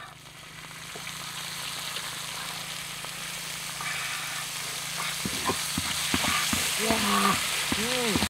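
Crickets sizzling as they fry in a hot metal pan, the hiss slowly growing louder. From about five seconds in, a stick stirs them, with repeated sweeping scrapes and knocks against the pan.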